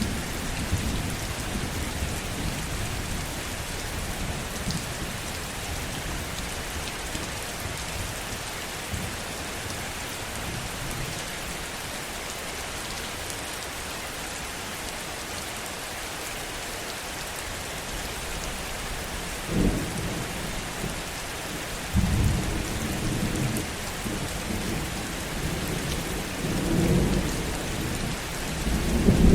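Heavy rain falling steadily with thunder. A low rumble dies away in the first few seconds, a sharp thunderclap cracks about two-thirds of the way in, and rolling thunder builds and grows louder toward the end.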